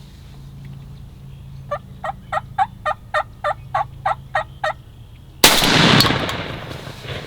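A run of about eleven evenly spaced turkey yelps over three seconds. About five seconds in comes a single loud shotgun shot that rings out and fades over a second or so.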